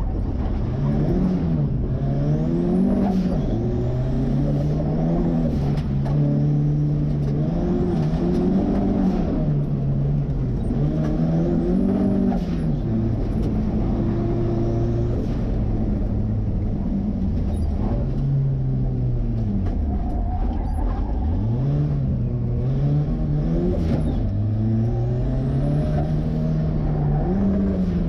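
Ford 2.3-litre turbo four-cylinder in a 1963 Volvo Amazon being driven hard through an autocross course. The engine revs climb and drop again and again, every few seconds, as the driver gets on and off the throttle.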